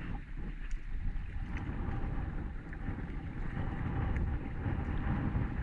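Strong wind buffeting the microphone: a gusting low rumble, with a few faint ticks.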